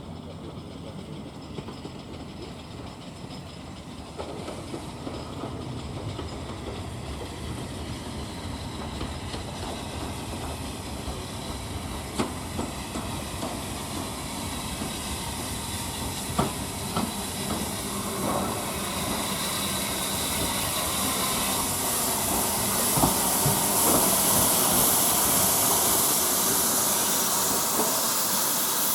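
Steam locomotive drawing closer, growing steadily louder, with a rising hiss of steam that dominates in the second half and a few sharp metallic knocks along the way.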